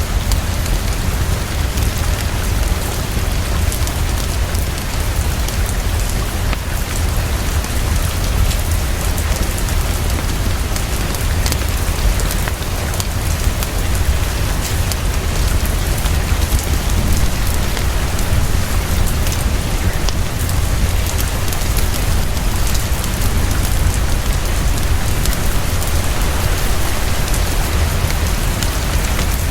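Heavy, fast rain falling steadily, with a constant deep low rumble underneath.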